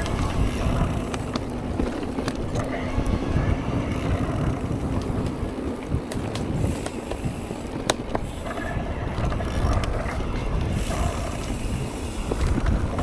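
Mountain bike riding on a dirt trail: wind rushing over the microphone and a steady tyre rumble, with scattered clicks and rattles from the bike, one sharper knock about eight seconds in.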